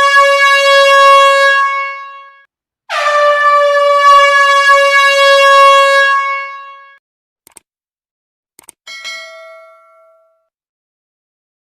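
Air horn sounding in two long, steady blasts: the first is already going at the start and stops after about two seconds, and the second lasts about four seconds. A couple of faint clicks follow, then a short ringing tone that fades away.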